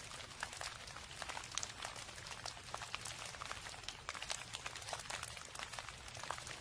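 Steady rain: many individual drops striking a surface close by, as dense sharp ticks over a constant hiss, with a low steady hum underneath.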